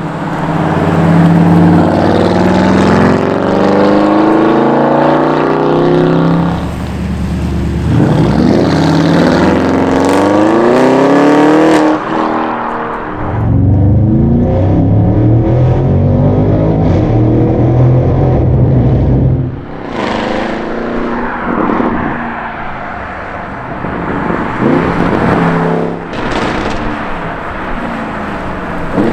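Audi RSQ8's twin-turbo 4.0-litre V8 through a straight-piped Capristo exhaust, accelerating hard with its pitch climbing through the gears. The sound cuts off sharply about twelve seconds in, pulls loud and steady again, then drops to lower revs with several short sharp bursts near the end.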